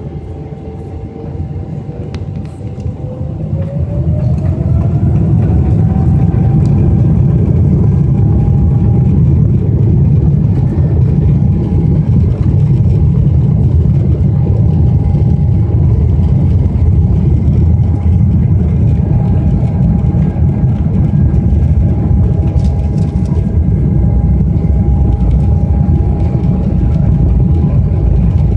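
Boeing 777-300ER's GE90-115B turbofan engines spooling up to takeoff thrust. A whine rises in pitch over the first few seconds as the noise grows, then holds steady over a loud rumble at full power.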